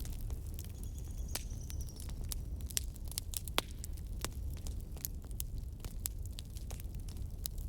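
Burning logs in a fireplace crackling: sharp, irregular pops over a low, steady rumble of the flames. A faint high whistle runs briefly about a second in.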